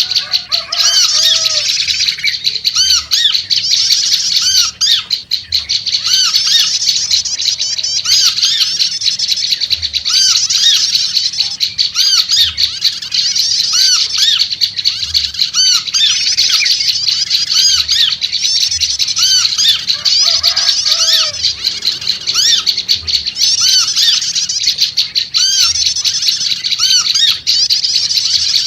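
Prenjak lumut birds calling noisily: a dense, continuous chatter of fast, high, arched chirps, with a repeated lower chirp about once a second. A few lower, warbling notes come in about a second in and again about two-thirds of the way through.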